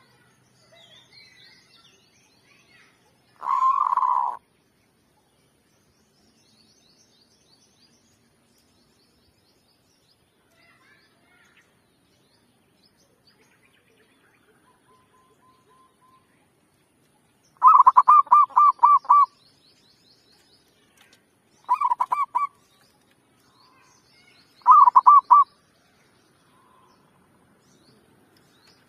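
Zebra dove (merbuk) cooing in short runs of rapid staccato notes: one run a few seconds in, then three more in the second half, the longest about six notes. Faint high chirping of small birds between the runs.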